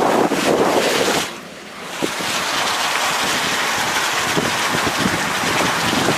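Wind buffeting the microphone in a loud, gusty rush. It drops away for under a second about a second in, then comes back steadier.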